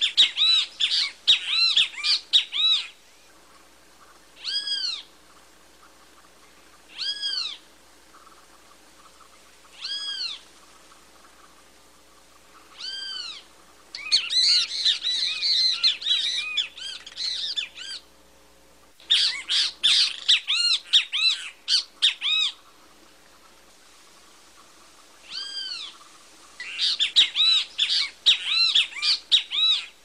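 Great kiskadees calling: single arched call notes every two to three seconds, broken four times by louder bursts of rapid, excited calls lasting a few seconds each.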